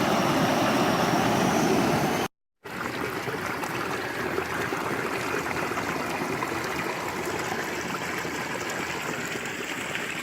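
Water flowing in a stream, a steady rushing and trickling. It breaks off briefly about two seconds in, then carries on a little quieter.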